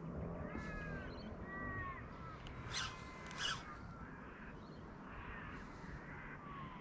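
A bird calling in a run of short, arched calls during the first two seconds, over a low steady rumble. Two sharp clicks about three seconds in, half a second apart, are the loudest sounds.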